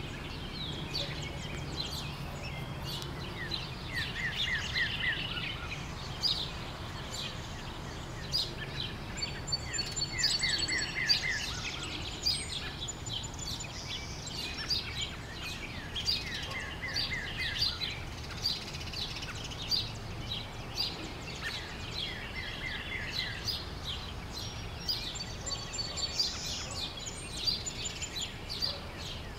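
Birdsong: many short high chirps throughout. A quick run of about five notes comes back every six seconds or so, and a few brief high whistled tones sound twice. All of it plays over a steady low background hum.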